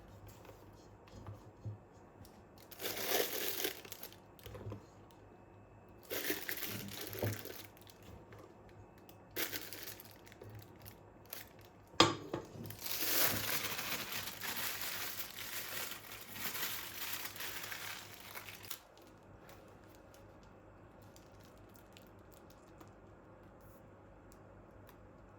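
Crinkling and rustling in several short bursts, then a sharp click followed by about six seconds of steady rustling, after which it goes quiet.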